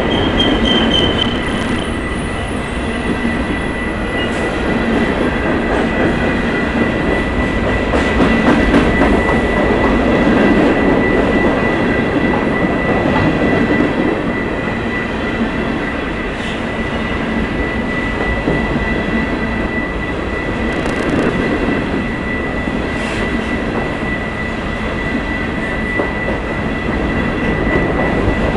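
Freight train of empty covered hopper cars rolling past with a steady rumble and wheel clatter, and a thin, steady high-pitched wheel squeal held throughout.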